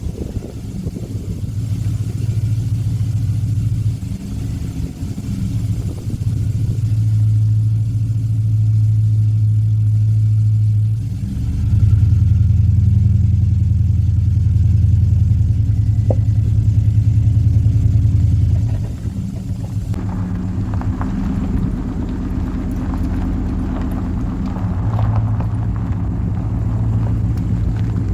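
A motor vehicle on the move: a loud, steady low engine and road rumble that steps up in level about eleven seconds in and drops back about eight seconds later.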